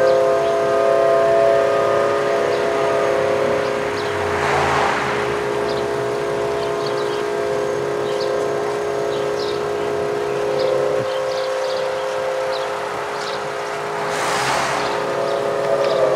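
Federal Signal Model 5 outdoor warning siren sounding a steady tone with several overtones, starting to wind down in pitch near the end; the title calls this run a failed one. Two passing cars swell up and fade, about four and fourteen seconds in.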